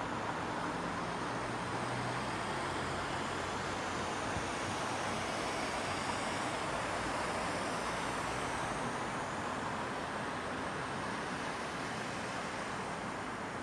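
Steady evening ambience of a residential neighbourhood: a continuous hiss of distant traffic, swelling slightly in the middle and easing off a little near the end.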